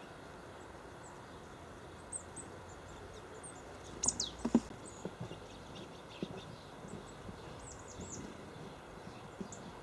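Small songbirds giving thin, high calls: short, quick downward-sliding notes scattered throughout, over a steady background hiss. A cluster of sharp knocks and taps comes about four to five seconds in.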